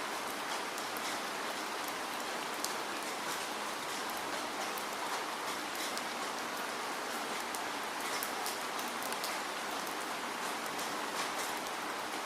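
Steady rain falling, a constant even hiss with many sharp, quick drop ticks scattered through it.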